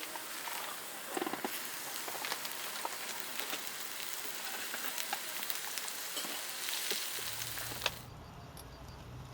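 Food sizzling in a hot pan over a wood fire: a steady hiss scattered with small crackles and pops. About eight seconds in, the sizzle cuts off abruptly, leaving a low hum.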